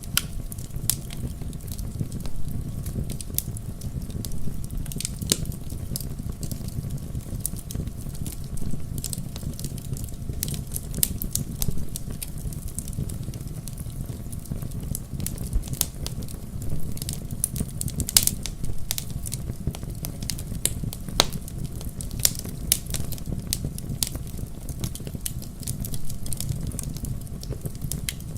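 Wood fire burning in a fireplace: a steady low rumble of flames with irregular crackles and snaps, a few louder pops among them.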